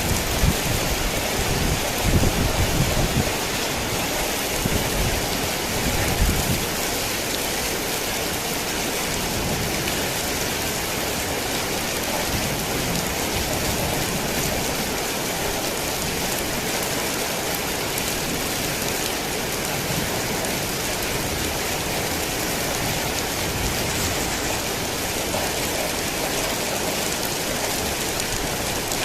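Heavy rain falling steadily, a dense even hiss. Low rumbles of thunder come and go during the first six seconds or so.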